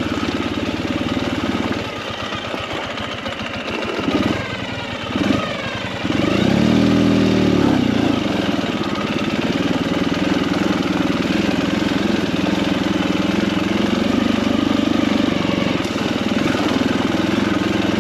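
Motorcycle engine running under way. It eases off between about two and six seconds in, revs up and back down around seven seconds, then pulls steadily.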